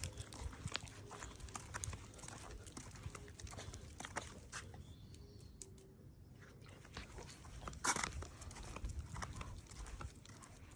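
A Boston terrier snuffling and nosing at the ground, with scattered small clicks and rustles and a louder short rustle about eight seconds in.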